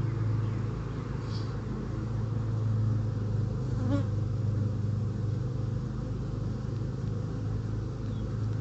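A steady, low hum of many honeybees buzzing around an open hive being inspected, with a faint click about four seconds in.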